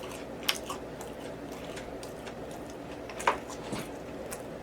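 Close-miked eating: quiet mouth sounds over a steady hiss, with two sharp clicks, about half a second in and again about three seconds in.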